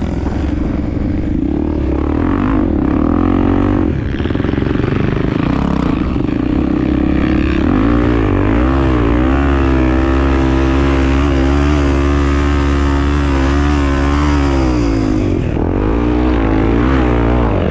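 Honda Tornado 250 single-cylinder four-stroke engine running under way, its pitch rising and falling with the throttle and holding fairly steady for several seconds in the middle.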